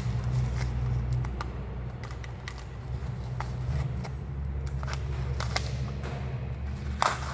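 Masking tape being peeled off a painted guitar body: faint crackling and scattered small ticks, with a short louder rip near the end, over a steady low hum.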